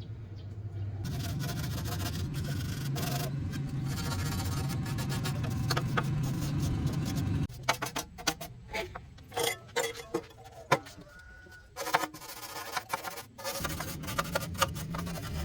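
A small electric power tool runs with a steady hum while abrading metal with a rough scraping noise. It stops about seven seconds in, leaving a run of sharp clicks and knocks from handling metal parts, and starts up again near the end.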